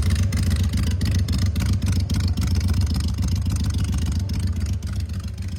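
Harley-Davidson Sportster 883's 883 cc V-twin engine running steadily, with a low, fast, even exhaust pulse.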